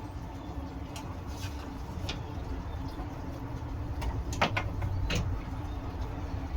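Scroll saw running and cutting through wood: a steady motor-and-blade hum with a few sharp ticks, clustered about four and a half seconds in.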